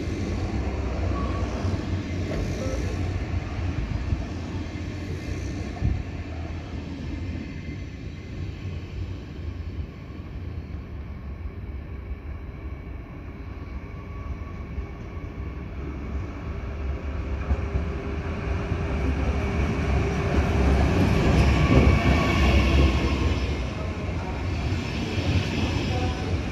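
Double-deck Intercity 2 trains: one pulls out and its rumble fades, then another runs in alongside the platform, its rumble building to the loudest point about twenty-two seconds in, with a higher whine over it.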